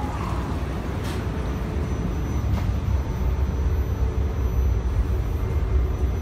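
Steady low rumble and hum of a stationary E4 series Shinkansen and its station, heard first from the platform and then from inside the car's vestibule, with a couple of faint clicks.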